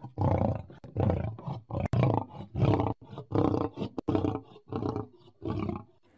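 Lion roaring: a run of short roars, about two a second, that stops shortly before the end.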